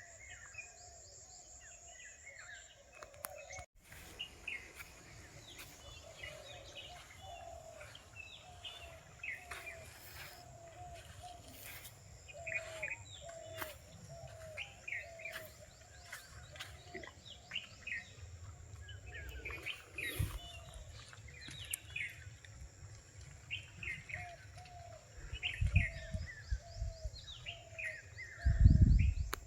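Several forest birds chirping and calling, with one voice repeating a lower note about twice a second, over a faint steady high hum. Low rumbling bumps come near the end.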